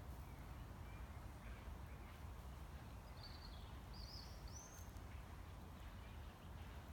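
Faint outdoor ambience: a low steady rumble with a few short bird chirps, three of them close together from about three to five seconds in.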